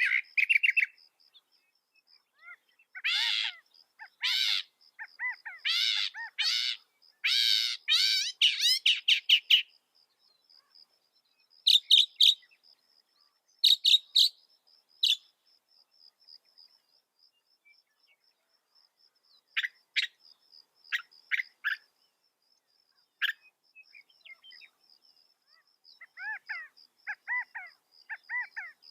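Mockingbird singing in separate phrases: a run of harsh, repeated notes in the first ten seconds, sharp short calls in the middle, and a warbled series near the end. A faint high, rapidly pulsing tone runs underneath.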